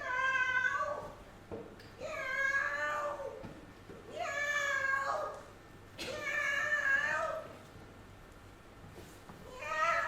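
Five long meows, about one every two seconds, each rising and then falling in pitch.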